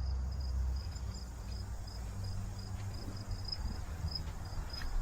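Crickets chirping in a steady, even rhythm, about three high chirps a second, over a low rumble.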